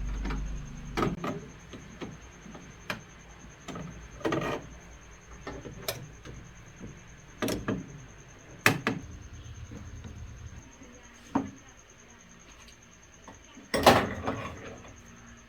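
Scattered knocks and clatters of hand work on a rice milling machine during a sieve-screen replacement, about a dozen separate hits with the loudest cluster near the end. A faint steady high-pitched tone runs underneath.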